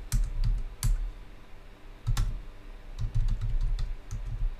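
Typing on a computer keyboard: irregular key clicks with dull knocks on the desk.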